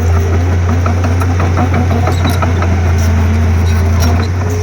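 Komatsu D31P bulldozer's diesel engine running steadily, with short clanks of metal on metal scattered through it.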